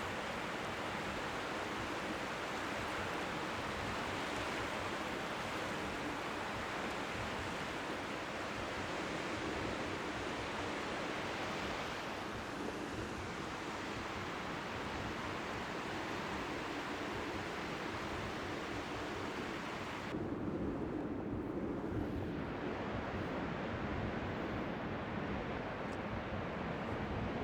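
Strong sea wind with faint waves lapping on the shore, making an even rushing noise. About twenty seconds in, the hiss loses its top and a lower rumble of wind grows slightly louder.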